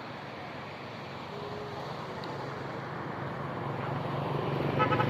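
Steady outdoor road noise with a motor vehicle's engine hum growing louder toward the end. A short pitched sound with a pulsing edge comes in near the end.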